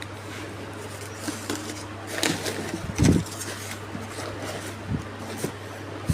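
Objects being handled: scattered rustles and light knocks, with a louder thump about three seconds in, over a steady low hum.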